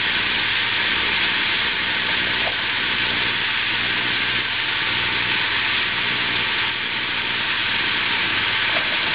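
Carrots and broccoli sizzling steadily in hot oil in a nonstick frying pan as they are stirred with a wooden spoon.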